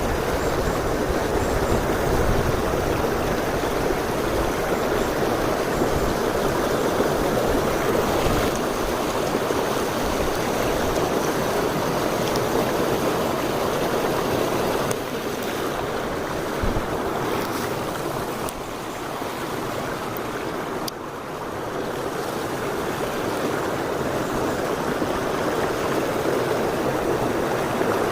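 Mountain stream water rushing steadily over rocks, a little softer for a few seconds past the middle.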